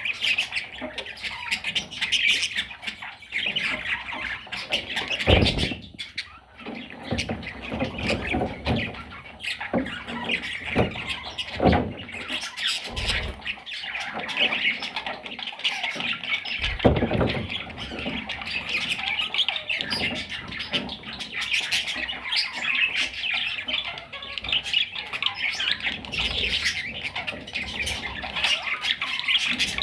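Pet budgerigars chattering and squawking continuously, several birds calling over one another. A few dull thumps break in now and then.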